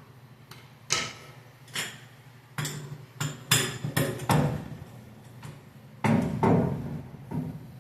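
A hammer striking metal: about ten knocks at an uneven pace, some in quick pairs, each with a short ring.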